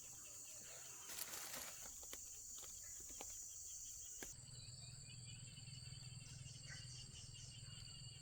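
Faint insects trilling steadily, with a few light knocks in the first half. About halfway the background changes abruptly to steadier high insect tones over a low hum.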